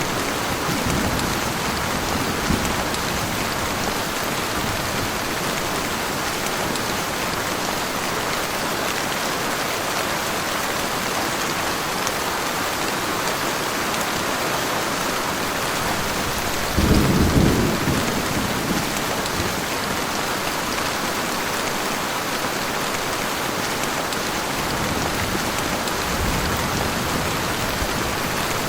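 Heavy rain falling steadily, with a rumble of thunder about two-thirds of the way through and a fainter one near the end.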